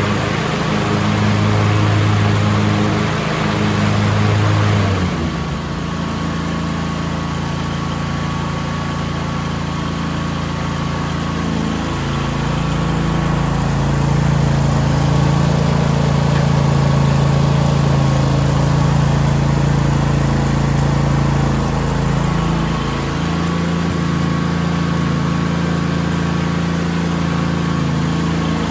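Craftsman T1000 lawn tractor's 21 hp two-cylinder Briggs & Stratton gasoline engine running steadily, its note changing about five seconds in and again around twelve seconds in.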